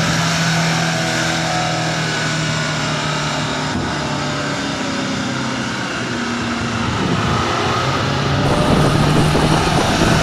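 Heavy truck engine running with a steady drone, growing somewhat louder near the end.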